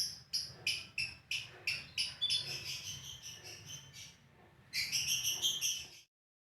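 Lovebird giving its long 'ngekek' chatter: a string of sharp, high calls about three a second that run together into faster chattering, a short pause, then another burst that cuts off suddenly.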